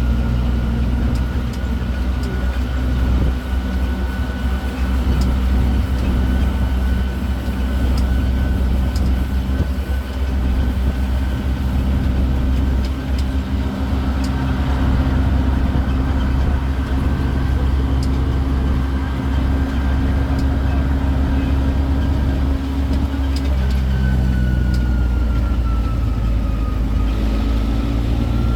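Tourist road train's engine and drive running steadily while under way, with a high whine over the engine note. The whine and engine pitch dip briefly near the end, then rise again.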